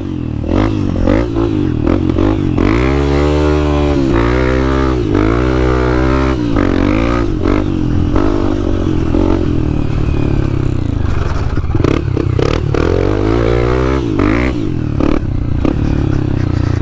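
Dirt bike engine revving up and down again and again, its pitch rising and falling as the throttle opens and closes, with some rattling from the bike.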